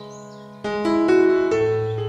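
Background piano music: a soft held chord, then a louder group of notes struck from about half a second in.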